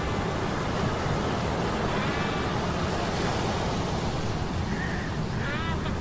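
Steady rushing sea-storm noise of surf and wind with a heavy low rumble. Faint short pitched cries rise out of it about two seconds in and again near the end.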